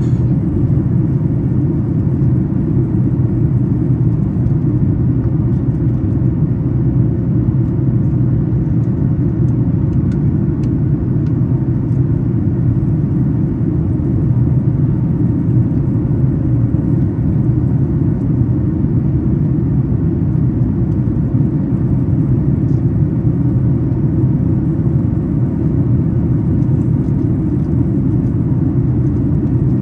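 Steady low cabin roar inside a Boeing 737 MAX 8 during the climb after takeoff: its CFM LEAP-1B turbofan engines and the airflow over the fuselage, with a faint steady hum.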